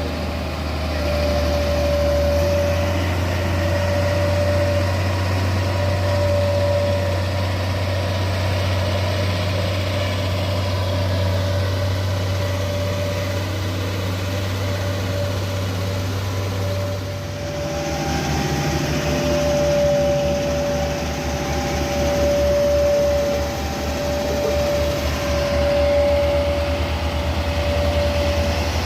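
Heavy diesel engine of road-work machinery running steadily, with a mid-pitched tone that sounds in repeated stretches about every second or two. A little past halfway the low engine hum changes to a fast, even pulsing.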